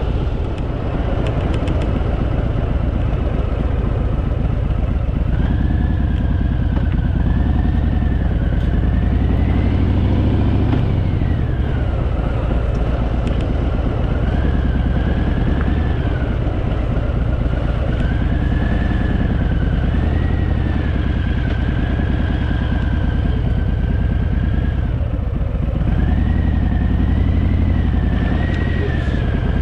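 Harley-Davidson Fat Boy V-twin motorcycle engine running under way, its steady low drone swelling and easing with the throttle, with a thin tone rising and falling in slow waves over it.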